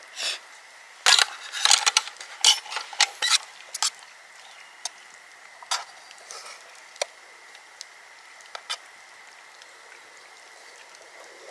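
Clicks and light clatter of utensils and tableware while people eat, busiest in the first few seconds and then only a few scattered ticks.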